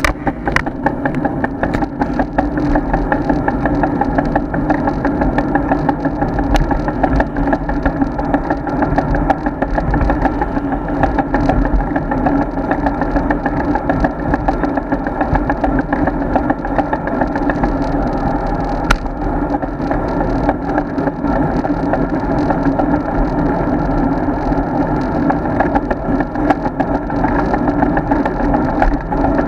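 Steady road and wind noise of a road bike being ridden, picked up by a bike-mounted action camera: a continuous even drone with a few faint clicks.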